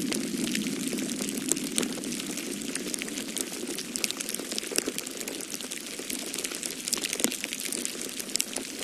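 Wood fire in a fireplace crackling, with irregular sharp pops and snaps over a low steady rush.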